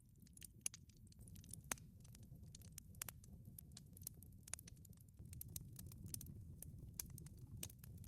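Wood fire crackling in a wood-fired pizza oven: faint, irregular sharp pops and snaps over a low, steady rumble.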